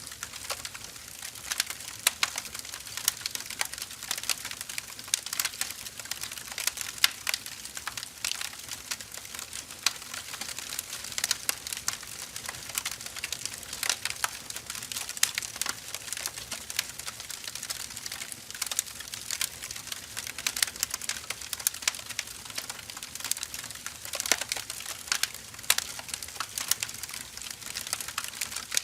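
Firewood burning: a steady crackle of many small sharp pops and snaps over a soft hiss.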